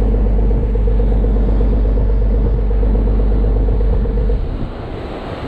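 Ferry boat's engine running steadily with a deep drone, then throttled back suddenly about four seconds in, leaving wind and water noise.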